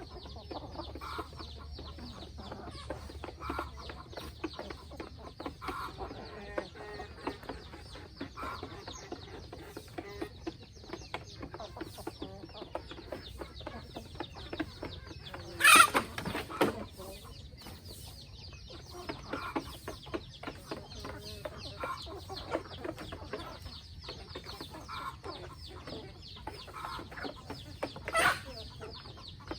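A flock of free-range chickens clucking, with two loud, short calls standing out, one about halfway through and one near the end.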